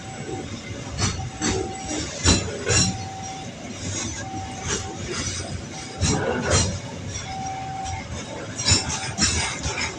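Container freight train rolling past, its wagon wheels clanking irregularly over the rail joints, while a level-crossing warning signal sounds a single repeating tone about every second and a half.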